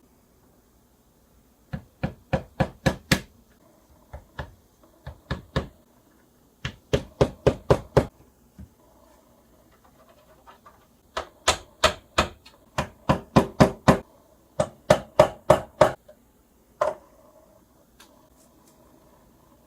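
Quick runs of sharp knocks, like hammer taps, about five a second in runs of four to eight with short pauses between, then a single knock near the end.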